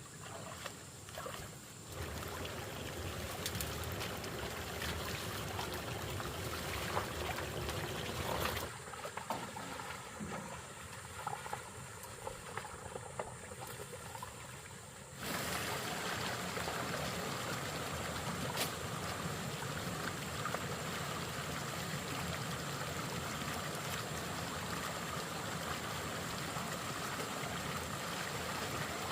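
Running water trickling and pouring, a steady noisy rush that shifts abruptly in level a few times.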